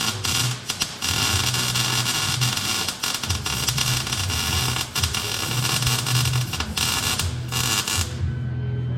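Welding arc crackling steadily with a low hum while stainless exhaust tubing is welded. It breaks off briefly about eight seconds in, then strikes again.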